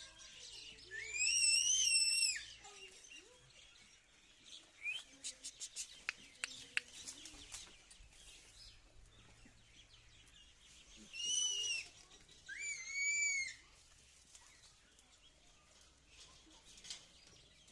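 Three drawn-out, high-pitched bird calls, each rising, holding and falling, one near the start and two close together later. Between them comes a quick run of short sharp clicks.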